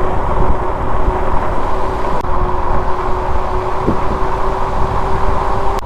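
Ride noise from a fat-tire e-bike rolling downhill: wind buffeting the microphone as a heavy, rough rumble, with steady road noise and a thin, even hum.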